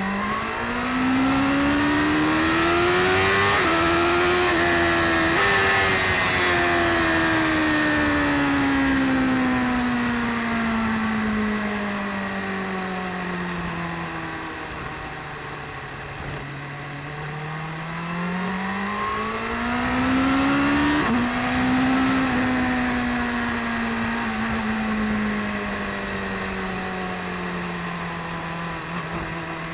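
BMW S1000RR sport bike's inline-four engine revving up as it accelerates, with the pitch stepping briefly a couple of times, then winding down slowly. About two-thirds of the way through it accelerates again and settles to a steady cruise.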